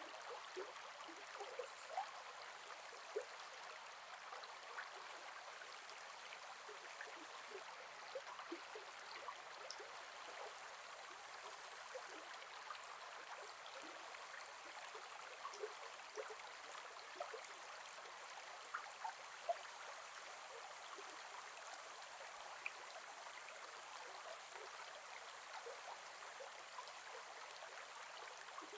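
Gentle forest river flowing over stones: a soft, steady water rush with many small gurgles and droplet-like plinks.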